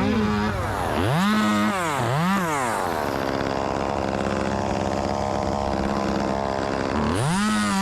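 A chainsaw engine running. It is revved up and down twice in quick succession about a second in, then held steady at high revs for several seconds, then revved up and let off again near the end.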